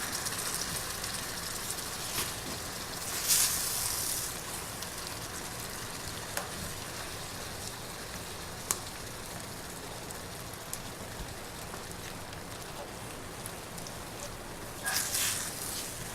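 Milk gravy of flour, pan drippings and milk sizzling in a frying pan, a steady hiss that eases after the first few seconds. A few clicks and scraping bursts from the utensil stirring and mashing the flour in the pan, the loudest about three seconds in and near the end.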